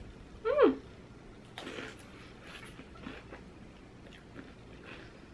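A woman's short falling "mm" of approval, then mouth-closed chewing of a loaded Dorito nacho chip, with faint irregular crunches.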